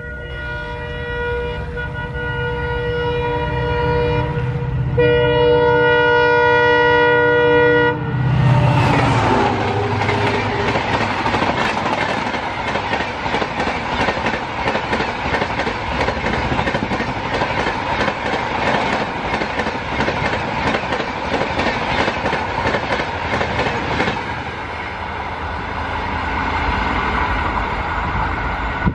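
WDP4D diesel locomotive sounding its multi-tone horn in two long blasts as it approaches, then passing about eight seconds in, followed by the express coaches rushing by at speed with a rapid rattle of wheels over the rail joints, easing off near the end as the train recedes.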